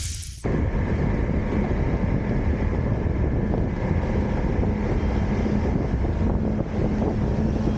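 Riding on an Elwing Haloke dual-motor electric skateboard: a steady rumble of the wheels rolling with wind buffeting the camera microphone, starting abruptly about half a second in.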